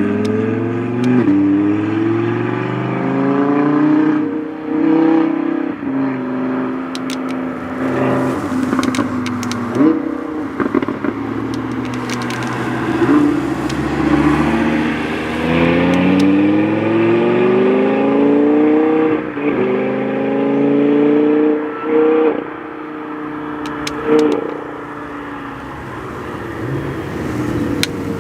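High-performance car engines accelerating hard, revs climbing and then dropping at each upshift, several times over.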